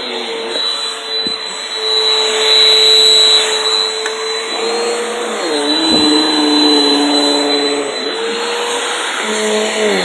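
Vacuum cleaner motor running continuously with a steady whine. Its pitch shifts and dips about halfway through, then settles again.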